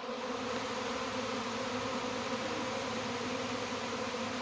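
A large swarm of honey bees buzzing steadily, a dense hum of many wingbeats from bees flying in to take over an empty hive.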